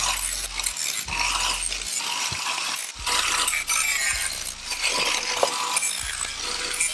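Jigsaw cutting through the steel shell of a stock motorcycle muffler, a fast, rattling blade with irregular sharp clatters.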